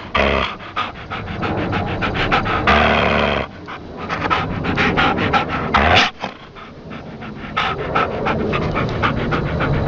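A dog panting rapidly, a run of quick, rhythmic breaths dubbed in as a sound effect.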